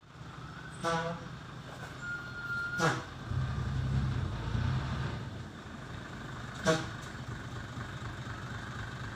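Dump truck engine running, with a heavier low rumble from about three to six seconds in. Three short, sharp pitched sounds cut across it, and there is a brief high tone.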